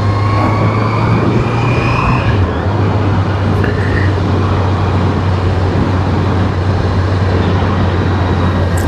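Honda CBR650R's inline-four engine running at a steady cruise under a constant rush of wind noise, its low hum dropping slightly in pitch about two and a half seconds in.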